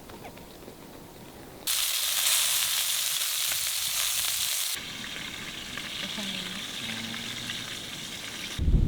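Food sizzling in a hot pan: a loud, even sizzle starts suddenly about two seconds in and drops to a softer hiss about three seconds later. Just before the end a loud low rumble cuts in.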